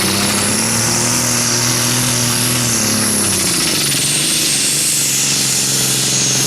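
Turbocharged diesel engine of a Limited Superstock pulling tractor running flat out against the sled, with a high turbo whistle over it. About halfway through, the engine pitch and the whistle drop and stay lower as the engine is pulled down, running short of power at the end of the pull.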